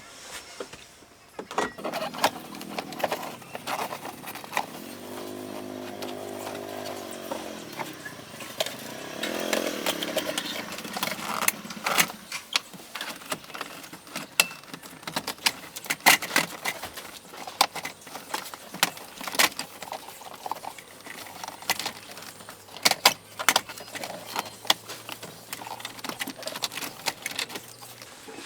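Hand tools working on a car: a run of sharp clicks, knocks and metallic clatter, irregular throughout. Twice in the first ten seconds a short pitched sound rises and falls under the clatter.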